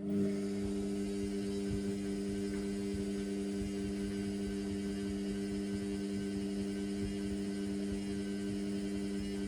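Indesit washing machine switching on a steady electrical hum that starts suddenly and holds unchanged, the kind made by its drain pump or water inlet valve running during a suds-heavy synthetics cycle.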